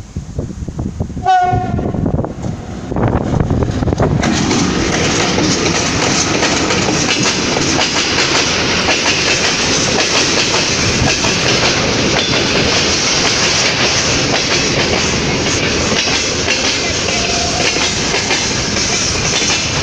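VL11 electric locomotive sounds a short horn blast about a second in. From about four seconds on, the freight train passes close by with a loud, steady rolling and rattling of wheels on rail.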